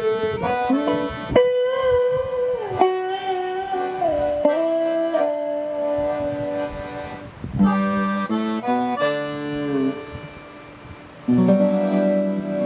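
Accordion and guitar duo playing live. The accordion carries a melody of held notes over plucked guitar, drops back briefly, then comes in with a loud full chord about 11 seconds in.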